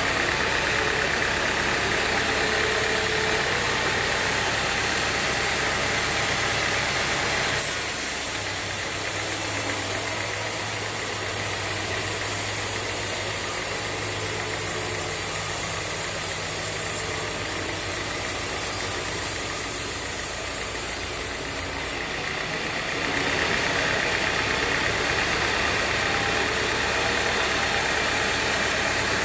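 Band sawmill machinery running steadily. Its sound changes between about 8 and 22 seconds in, with a brighter hiss and a low steady hum, then returns to the earlier sound.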